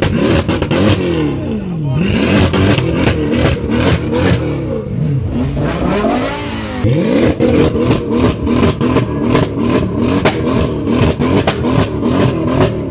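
A performance car engine revved hard several times, its pitch climbing and dropping. About halfway through it is held high for several seconds with rapid pops and crackles, then drops near the end.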